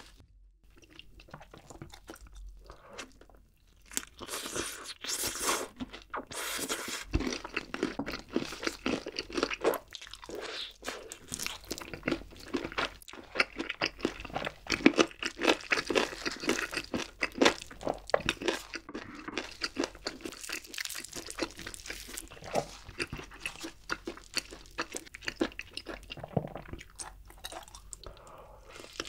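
Close-miked crunching and chewing of crispy Nashville-style fried chicken. The dense, irregular crunches begin about four seconds in, after a few quieter seconds.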